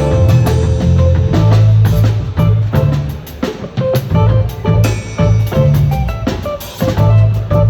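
Live band playing an instrumental passage: drum kit keeping a steady beat over a strong bass line, with guitar.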